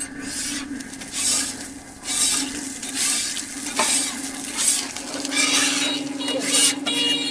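Metal spatula scraping and stirring on a hot griddle in repeated strokes about once a second, with food sizzling.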